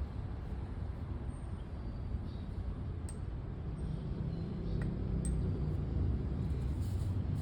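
Steady low rumble of background traffic with a few brief, faint high bird chirps over it.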